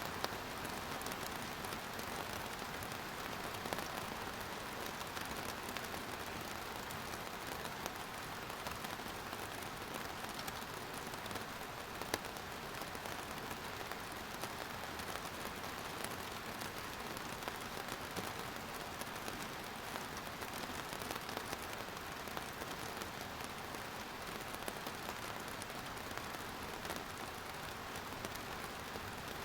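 Steady rain falling, a continuous even hiss with scattered fine drop patter.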